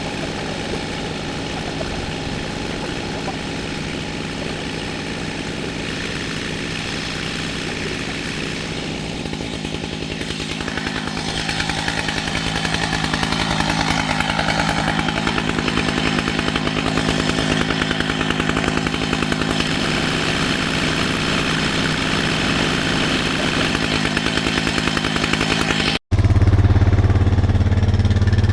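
Chainsaw running steadily while milling an oak log lengthwise, growing louder about eleven seconds in. Near the end the sound cuts off abruptly and a louder, lower engine sound follows.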